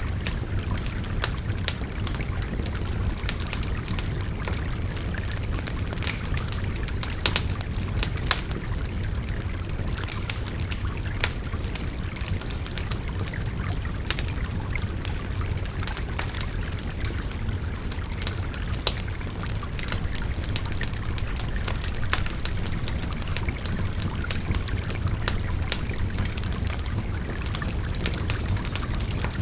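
A wood campfire crackling with frequent sharp, irregular pops over the steady babble of a shallow river.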